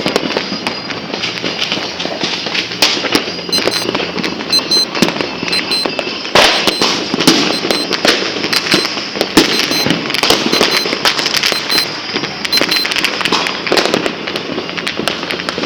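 Many fireworks and firecrackers going off at once: a continuous crackle of bangs and pops, with louder single reports now and then. A faint, high, repeating beep sounds intermittently through the middle.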